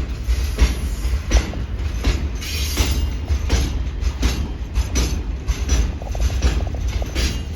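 Norfolk Southern Triple Crown RoadRailer train rolling past, its wheels clicking over the rail joints about every 0.7 seconds over a low rumble. A brief high wheel squeal comes about three seconds in.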